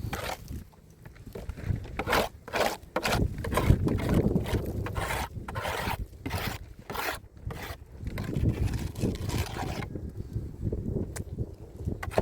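Repeated, irregular scraping strokes, a few a second, as of a hand tool working soil and stones; they thin out near the end.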